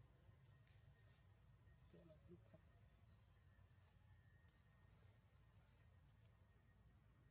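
Near silence with a faint, steady drone of insects: two high continuous tones. About two seconds in there is a faint short call.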